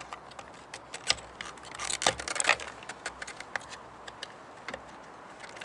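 Sharp plastic clicks and small rattles as the retaining clips on an in-tank fuel pump's plastic holder are worked loose by hand, with a burst of louder clicks about two seconds in.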